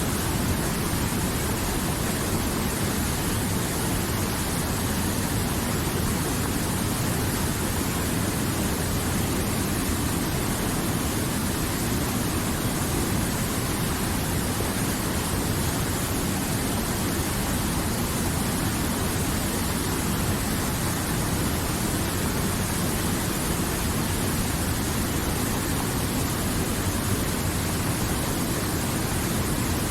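River water flowing, a steady, even rush with no separate splashes or changes.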